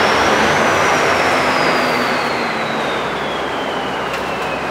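Train noise echoing in an underground station platform: a loud rushing with a high whine that climbs briefly, then slowly falls in pitch, the whole easing off a little after the middle.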